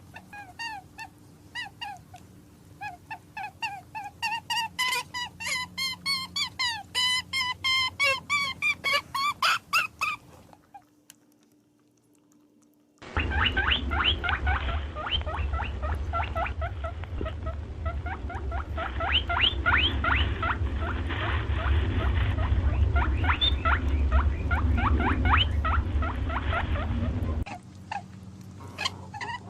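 Rapid, high-pitched animal squeaks and chirps in quick succession, in two runs with a short silence about ten seconds in; the second run is denser, over a low rumble.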